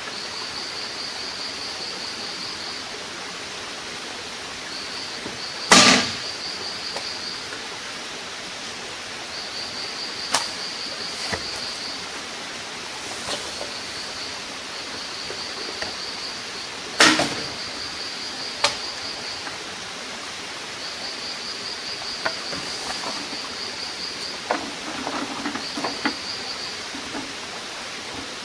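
Rainforest ambience: a steady hiss with an insect trilling high and fast in repeated bursts of about two seconds. Two loud sharp knocks, about six seconds in and about seventeen seconds in, with a few lighter taps near the end.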